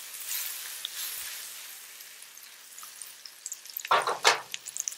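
Sliced mushrooms sizzling in melted butter and oil in an 8-inch nonstick fry pan as the pan is shaken, with a couple of sharp knocks about four seconds in.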